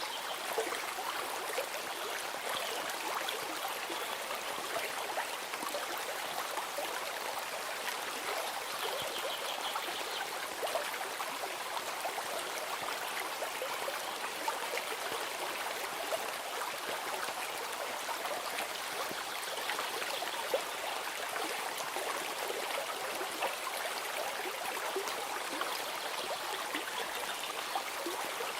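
Water in a stream flowing steadily, an even rushing and trickling.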